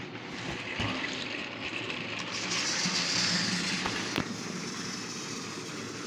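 Battery-powered Trackmaster toy train motors whirring as the engines run on plastic track, with a couple of sharp plastic clicks, one about a second in and one about four seconds in. The whirr swells louder for a second or so in the middle.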